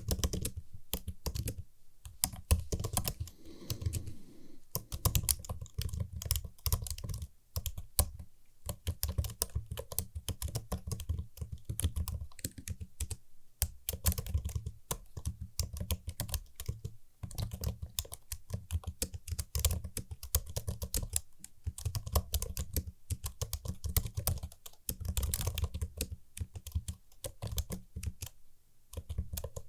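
Typing on a computer keyboard: a steady, dense run of crisp key clicks, with a couple of brief pauses.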